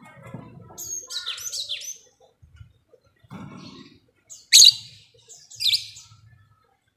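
Lovebird calling: a quick run of shrill chattering chirps about a second in, then two loud, sharp single shrieks past the middle, with low rustling between them.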